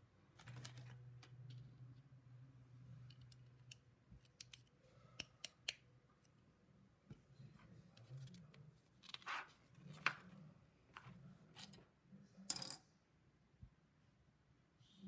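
Faint clicking and rattling of plastic LEGO pieces being handled and pressed together, at irregular intervals, with a few short scraping rustles about nine, ten and twelve and a half seconds in.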